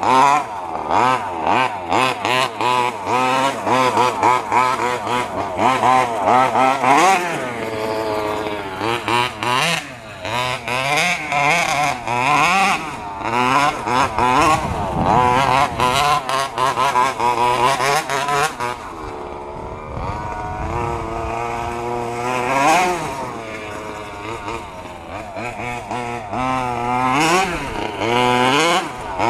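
Two-stroke petrol engine of an FG 2WD RC stadium truck being driven, revving up and down over and over: quick throttle blips at first, then longer climbs and falls in pitch.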